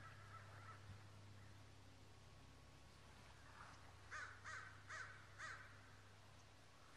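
A bird calls four times in quick succession a little past halfway, faint against a low steady hum.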